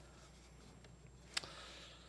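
Faint room tone with a single sharp click about one and a half seconds in.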